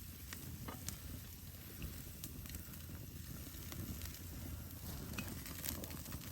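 Faint crackle of a wood campfire, with scattered sharp pops, under a steady sizzle of food cooking on a grill grate over the flames.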